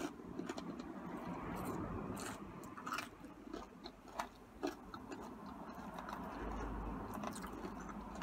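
A person chewing cheesy curly fries, with a few short sharp clicks scattered through the chewing.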